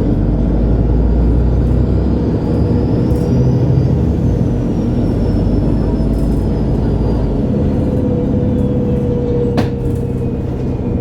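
Interior sound of a 2011 MAN A23 Lion's City G articulated city bus driving: the engine and drivetrain run steadily, with a faint high whine that rises and then slowly falls. A single sharp click comes about two-thirds of the way through.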